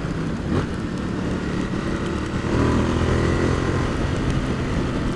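Ducati XDiavel's 1262 cc Testastretta DVT V-twin running under way, over a steady haze of wind and road noise. The engine note grows stronger about two and a half seconds in as the bike pulls.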